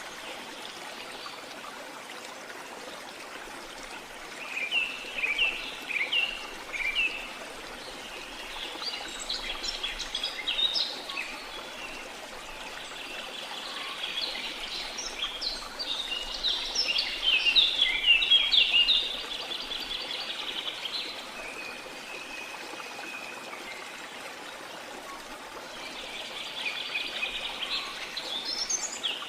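Small birds chirping and twittering in several bursts over a steady wash of sea water.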